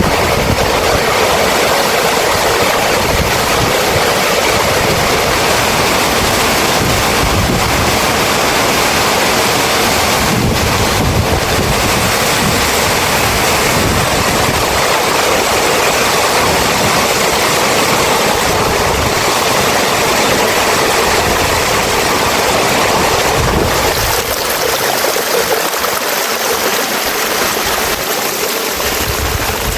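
Heavy rain falling in a steady, dense rush. About 24 seconds in the low rumble drops away and it becomes slightly quieter.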